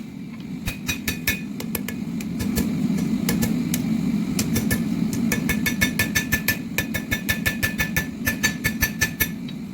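Hammer blows on steel at an anvil, each strike ringing: scattered blows at first, then a fast even run of about four strikes a second. A steady low drone runs underneath.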